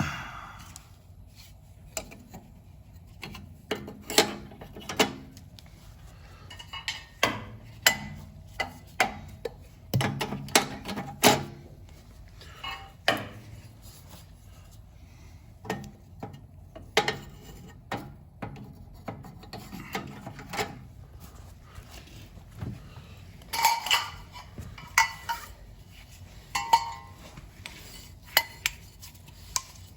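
Metal gas burners of a Slant Fin boiler clinking and clattering as they are slid back into place over the burner manifold, in irregular knocks and scrapes with short quiet gaps between them.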